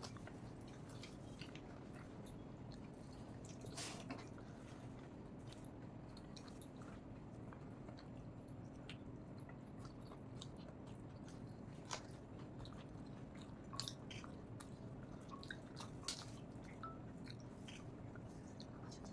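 Close-miked chewing and biting of a mouthful of rice and fried red amaranth greens, with scattered soft mouth smacks and clicks over a steady low hum.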